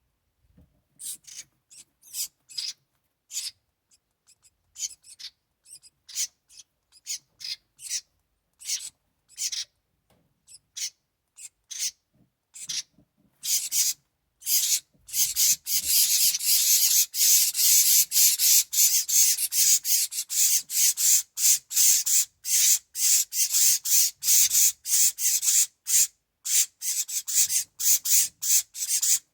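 House wren nestlings begging with short, raspy, hissing calls. The calls are scattered at first, then build about halfway through into a dense, almost unbroken chorus.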